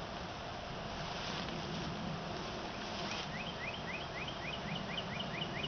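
Package honeybees buzzing as a steady hum. From about three seconds in, a bird calls over it with a quick run of short rising chirps, about four or five a second.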